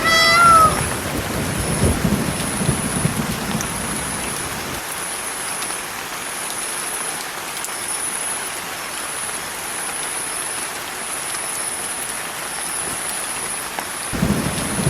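A cat's short meow right at the start, then a steady rain-like hiss, with a low rumble under it for the first five seconds or so.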